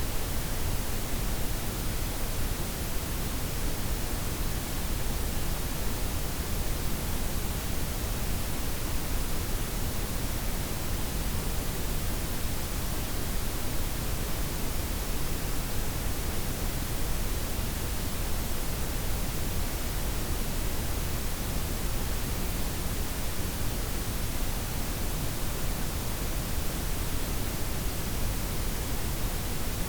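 Steady synthetic noise, a layered blend of white, pink and brown noise with softened highs, even and unchanging, with a strong low rumble underneath.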